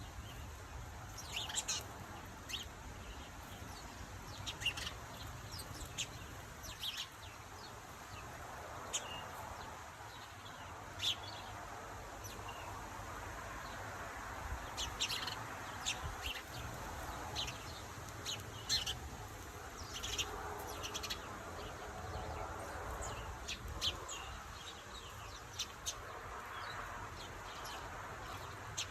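Small garden birds chirping at a bird table: short, high chirps that come irregularly, now singly, now in quick runs, over a faint steady low rumble.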